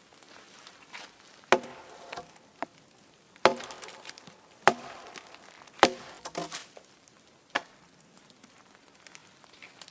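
An axe chopping wood: five sharp strikes spaced irregularly, one to two seconds apart, with a few lighter knocks between them.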